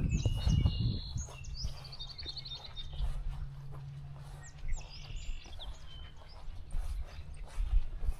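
Songbirds singing, one giving a trill of quick repeated notes that falls in pitch, with other short phrases around it. Footsteps on the trail thud underneath, heaviest in the first second.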